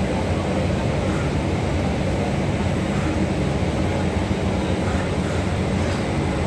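Passenger train coaches rolling past, the wheels on the rails making a steady rumble.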